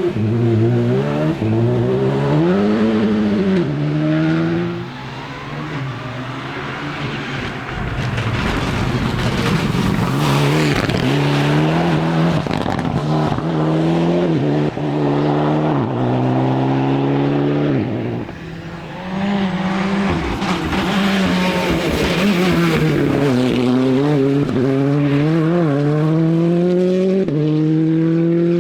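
Rally cars driven hard on a stage: engines revving up and dropping sharply over and over through fast gear changes, with tyre noise. The sound dips briefly twice.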